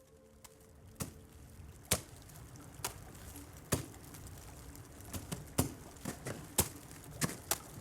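Footsteps of someone climbing a slope, sharp crunching strikes about once a second that come closer together near the end.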